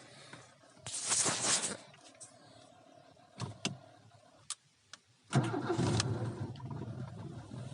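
A brief rush of noise and a few sharp clicks. Then, about five seconds in, the 1991 Fiat Uno's 1108cc Fire four-cylinder carburettor engine catches on LPG almost at once and runs, easing toward a steady idle. It is a cold start without choke.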